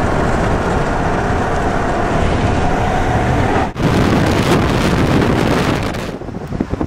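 Strong wind blasting across the microphone: a loud, steady rushing roar that breaks off for an instant partway through, then eases and turns gusty near the end.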